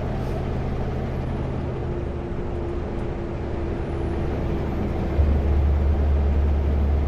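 Kenworth W900L semi-truck's diesel engine running steadily while driving on the highway. About five seconds in, its note turns deeper and louder.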